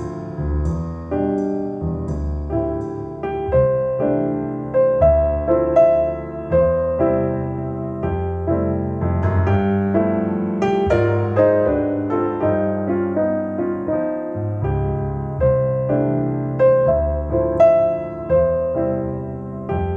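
Piano music played back through Bowers & Wilkins 803 D4 floor-standing speakers driven by a McIntosh MA5300 integrated amplifier; a run of struck notes, each fading away, over low bass.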